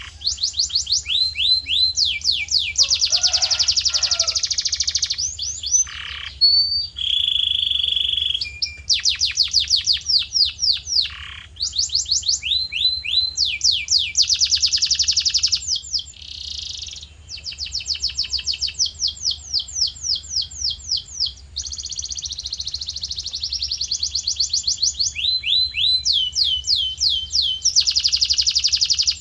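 Male domestic canary in full song: long rolling trills of fast, evenly repeated notes, changing from one roll to the next with short breaks, and a brief steady whistled note about seven seconds in.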